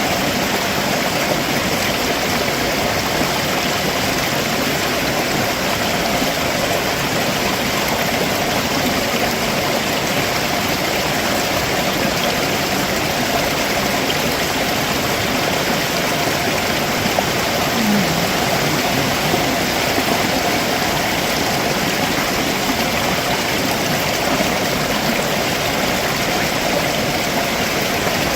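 Stream water running and splashing over rocks below a waterfall: a steady, even rush.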